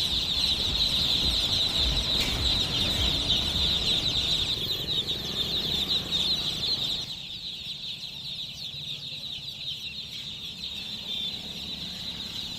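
A large group of young chicks peeping continuously, a dense high-pitched chorus of overlapping chirps. A low rumble underneath stops about seven seconds in.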